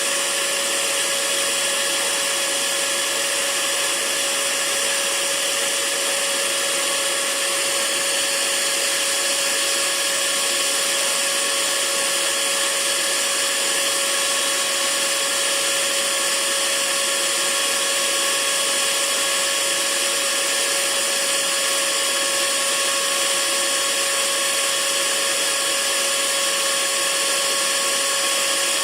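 Hair dryer running steadily: an even rush of blown air with a constant motor whine, played as white noise.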